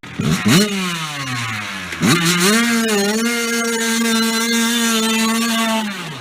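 Dirt bike engine revved sharply twice, the pitch falling back after each, then held steady at high revs for about three and a half seconds before dropping off near the end.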